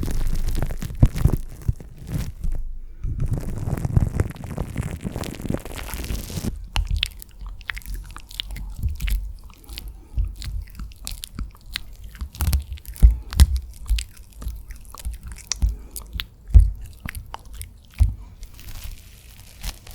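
Wet ASMR mouth sounds close to the microphone: a dense stretch of moist crackling, then from about six seconds in a run of separate sharp clicks and pops.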